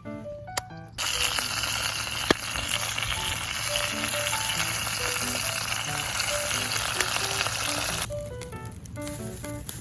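Food sizzling as it fries in a hot pan: a loud, even hiss that starts suddenly about a second in and cuts off about eight seconds in.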